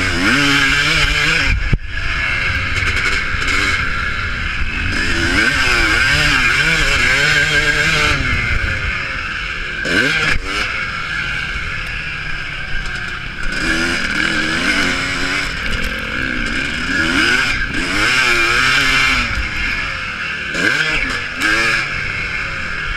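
Several motocross bikes racing on the track, their engines revving up and falling back over and over as they accelerate and pass.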